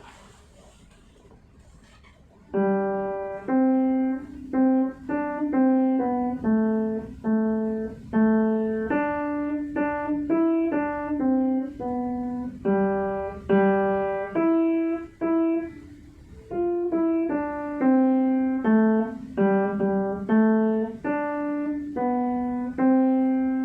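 Piano playing a slow, simple melody one note at a time, starting about two and a half seconds in; each note is struck and fades before the next.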